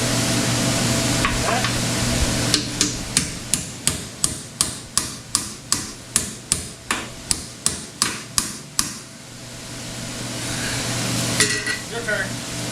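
A hammer striking repeatedly at an even pace, about three blows a second for some six seconds, starting a couple of seconds in over a steady hiss. The hiss fades after the blows and builds again near the end, with a few clicks.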